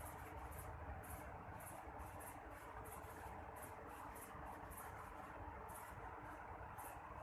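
Night insects, crickets or katydids, chirping in short high-pitched pulses, several a second and unevenly spaced, over a faint steady low rumble.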